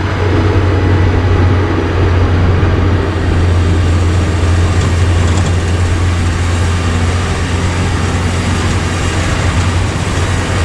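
A motor engine running steadily under way: a strong, steady low drone with a noisy rush above it.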